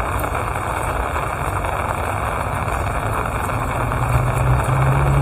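Steady rain falling, with a low rumble that grows louder near the end.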